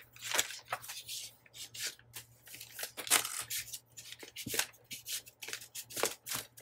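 Paper-crafting handling sounds: paper and trim being handled and cut, a busy run of short, irregular scratchy rustles and snips.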